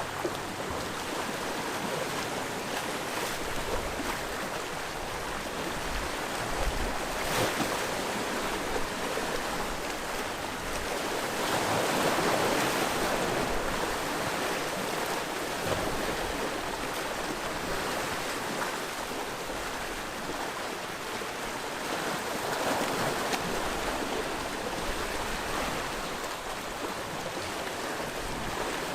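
Sea waves washing onto the shore in a steady rush of surf. The surf swells louder about twelve seconds in and again a little past twenty seconds.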